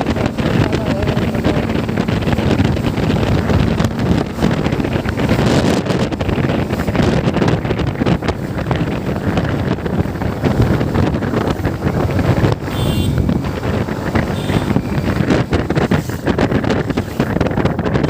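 Heavy wind buffeting the microphone of a moving motorcycle, with the bike's engine running underneath. A brief high-pitched tone sounds about thirteen seconds in.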